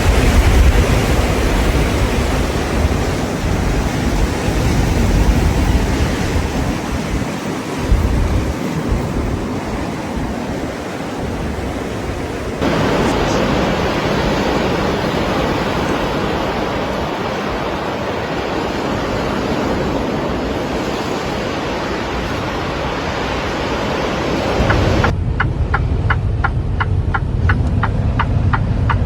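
Steady rushing noise that changes abruptly about twelve seconds in and again near the end; in the last few seconds a fast, regular ticking sounds over a low rumble.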